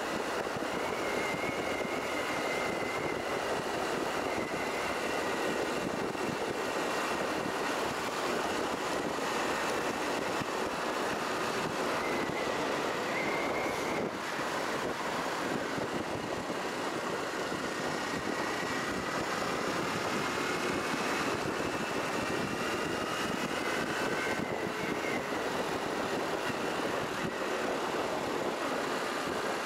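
Honda Cross Cub 110's small air-cooled single-cylinder four-stroke engine running under way, with steady wind and road noise on the rider-mounted microphone. The engine's pitch drifts slowly up and down with speed, with a brief dip in level about halfway through.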